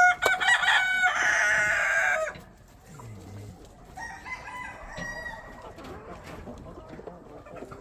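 A rooster crowing: one loud crow of about two seconds at the start, followed by fainter calls from other fowl.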